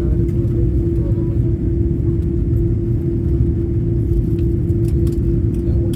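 Steady cabin noise of an Airbus A330 airliner in flight on its descent: an even low rumble of engines and airflow with a constant hum.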